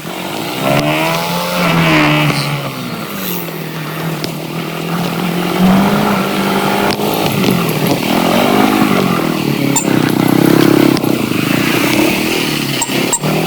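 Motorcycle engine running while riding, its pitch rising and falling several times as the revs change, over a rushing noise, with a few sharp clicks near the end.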